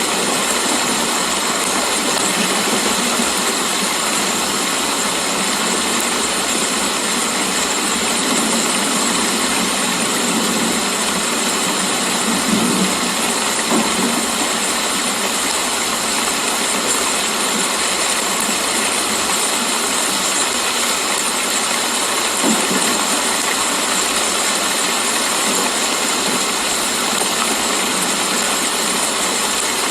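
Steady rain falling, an even, unbroken hiss, with a few faint low thumps about halfway through and again later.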